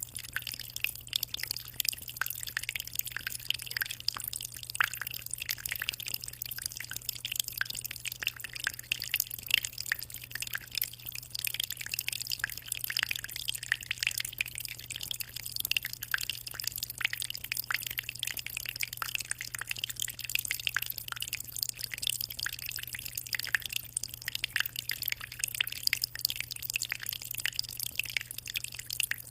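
Aquarium water trickling and splashing, a dense, continuous patter of small drips and droplets, over a steady low hum.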